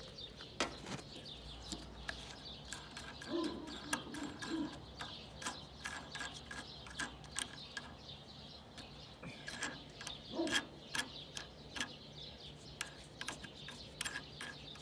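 Scattered clicks and light knocks of hands prying at the plastic air cleaner cover of a small Honda engine, which is stubborn to take off. Birds chirp in the background.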